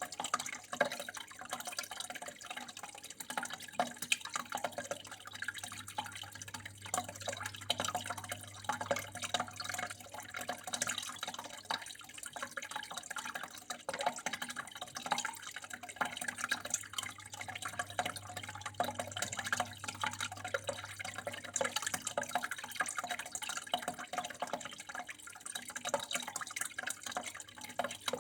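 Water flowing and dripping steadily, a continuous trickle full of small splashes, with a constant low hum underneath.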